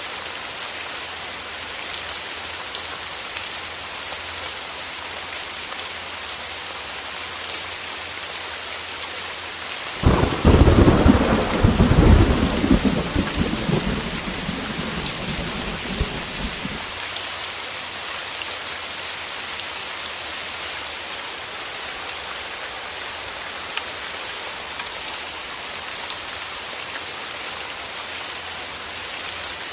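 Heavy rain falling steadily on a window glass, with fine drop ticks. About ten seconds in a loud thunderclap breaks suddenly and rumbles away over some seven seconds.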